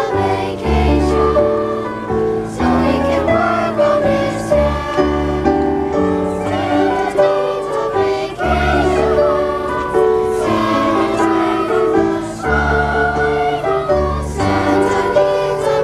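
A choir singing live with instrumental accompaniment, sung melody over held bass notes that change every second or two.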